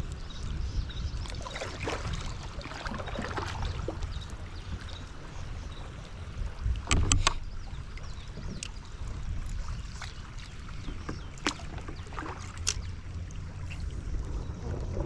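Kayak being paddled on the river: water splashing and dripping from the paddle, with scattered sharp knocks, loudest in a cluster about seven seconds in. A steady low wind rumble on the microphone runs underneath.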